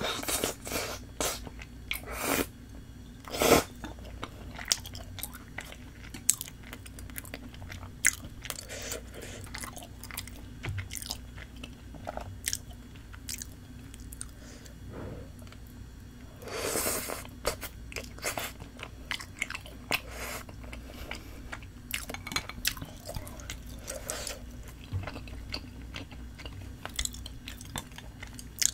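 Close-miked chewing and wet mouth sounds of someone eating spicy tteokbokki, chewy rice cakes in thick red sauce. The chewing comes with many sharp clicks and smacks, and one longer, louder rush of noise about seventeen seconds in.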